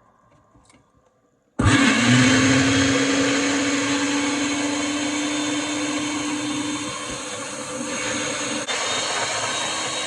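Kitchen blender switching on abruptly about a second and a half in and running steadily at speed, blending strawberries, ice cream and milk into a milkshake.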